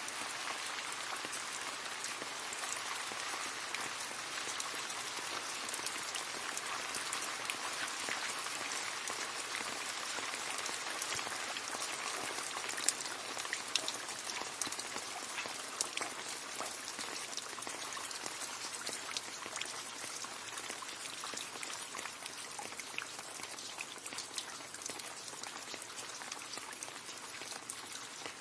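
Steady rain falling and splashing into a puddle, a dense patter of individual drop splashes over an even hiss.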